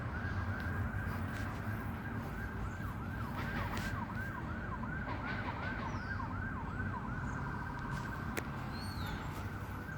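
Emergency vehicle siren in fast yelp mode, rising and falling about three times a second without a break.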